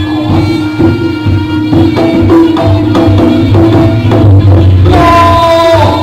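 Live jaranan music: a traditional Javanese ensemble playing a held, reedy melody line over a busy run of drum and percussion strokes.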